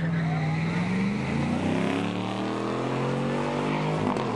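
A V8 engine running steadily, then rising in pitch from about a second and a half in as it accelerates hard.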